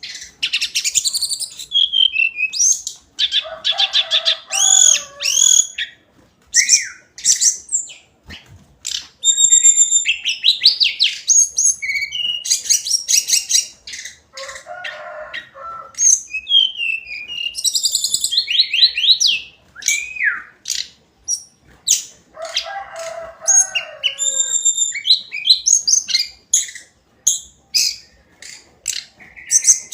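Hill blue flycatcher singing a long, varied song of whistled phrases, quick repeated notes and gliding calls, broken three times by a lower, harsher chattering passage.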